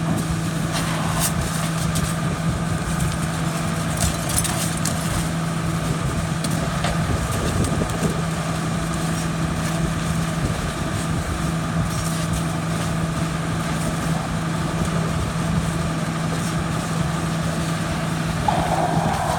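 Fire engine running steadily at a constant pitch, with a few faint clicks or crackles in the first few seconds.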